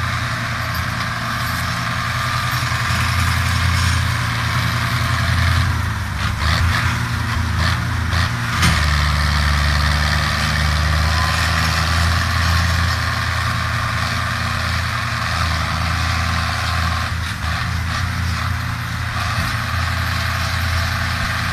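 Tractor engine running steadily, its note shifting a little in the middle, with a sharp click about nine seconds in.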